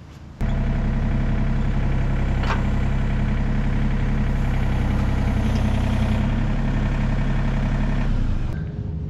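A motor running steadily, starting suddenly about half a second in and easing off near the end.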